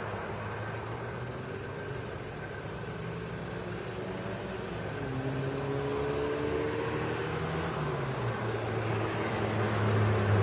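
Nissan Primera P10's 1.6 four-cylinder petrol engine running, heard through its exhaust. The note rises slowly in pitch about halfway through, drops back, and grows louder near the end.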